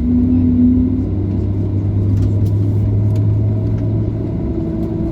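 Boeing 737-800's CFM56 jet engine spooling up during start, heard from inside the cabin: a steady low hum under a tone that slowly rises in pitch, with a higher tone joining partway through. Faint clicks sound near the middle.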